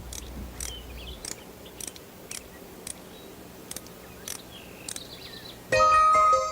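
Small bird chirping and twittering in short, high notes a few times a second. Near the end a loud tinkling, chime-like melody starts.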